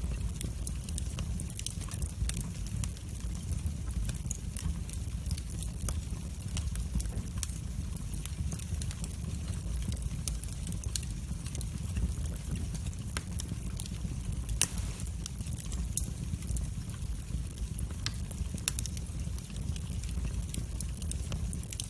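Wood fire burning in a fireplace: frequent small crackles and snaps over a steady low rumble of the flames, with one sharper pop about two-thirds of the way through.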